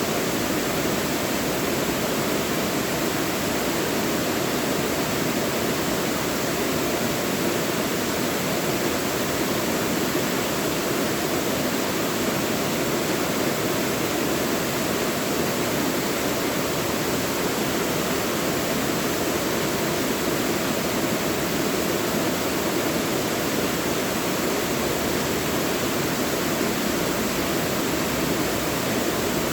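Mountain valley stream rushing steadily over rocks, a constant even wash of water with no breaks.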